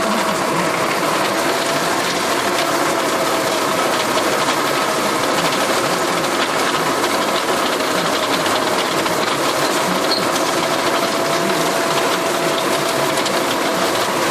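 Tractor driving a rotary tiller that chops celery plants: a steady, rapid mechanical clatter with a constant whine, unchanged throughout.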